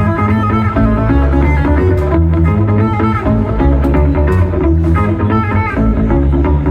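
Live instrumental music: plucked guitar picking a melody over a steady low bass line, with no singing.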